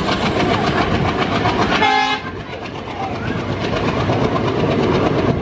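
Two passenger trains passing on adjacent tracks, heard from the doorway of a moving coach: a loud, steady rumble and rapid clatter of coach wheels on the rails. A short horn blast sounds about two seconds in.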